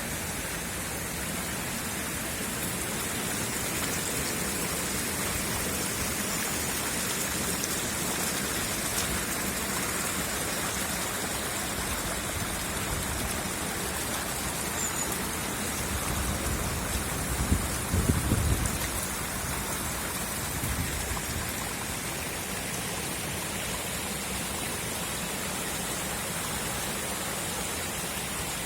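Steady rush of floodwater and heavy rain, an even hiss with no break, with a few low rumbles on the microphone a little past halfway.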